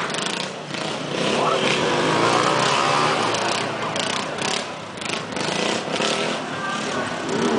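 Motorcycle engine revving, its pitch rising and falling, with voices in the background.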